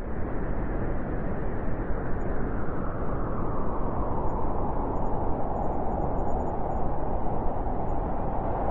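Blizzard wind rushing steadily, with a howling tone that grows stronger about halfway through.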